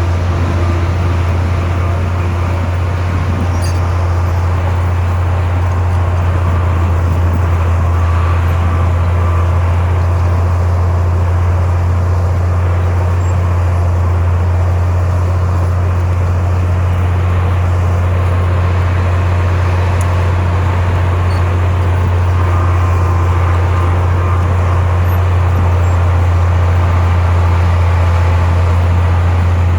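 Heavy diesel earthmoving machinery running steadily under load: a loud, constant low engine drone that rises slightly in loudness toward the end.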